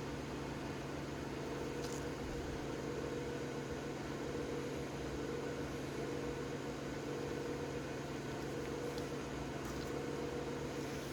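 Steady machine hum with held low tones, and a few faint light clicks.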